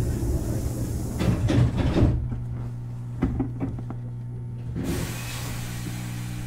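Inside a Hankyu 6000 series electric train car: a steady hum from the car's equipment, with a cluster of knocks and thuds about one to two seconds in, another knock a little after three seconds, and a burst of air hiss near five seconds.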